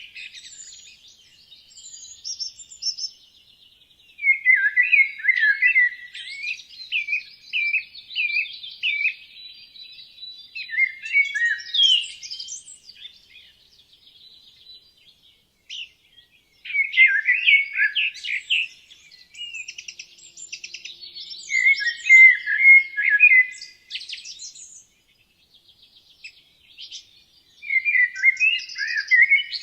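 Forest songbirds singing: bursts of quick, high chirps and whistled notes a few seconds long, with short pauses between them, over a faint, steady high trill.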